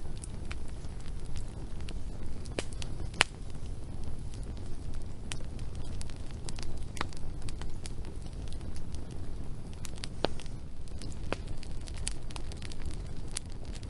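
Wood fire burning, crackling with irregular sharp pops over a steady low rumble of flame; the loudest pop comes about three seconds in.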